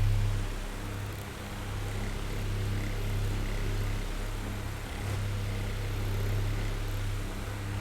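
Oscillating electric fan running: a steady low motor hum under the whir of the blades moving air. The loudness drops about half a second in and swells gently after that.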